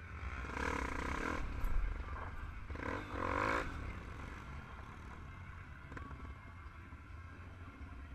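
Motorcycle engines running with a steady low rumble, and two louder roars about half a second in and about three seconds in.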